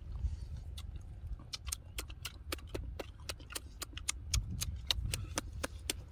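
Mouth sounds of people eating roasted duck meat with their hands: chewing and lip-smacking that make a quick, irregular run of wet clicks, several a second, over a low rumble.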